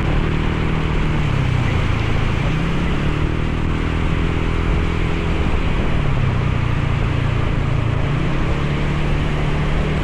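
Motorcycle engine running under way, its pitch dipping and rising a few times as the throttle changes, over a steady hiss of wind and rain.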